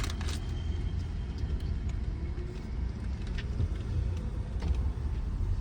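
Low, steady rumble of a car heard from inside the cabin.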